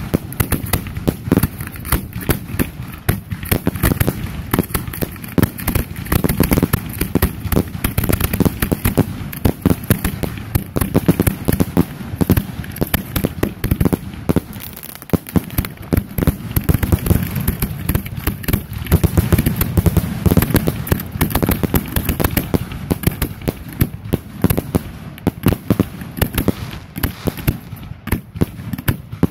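Fireworks finale: aerial shells launching and bursting in rapid succession, a continuous barrage of many bangs and crackles a second with no pause.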